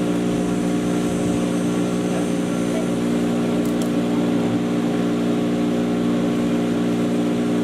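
Patriot 1.5-HP electric chipper shredder running steadily, its electric motor and rotor giving an even hum over a whirring rush.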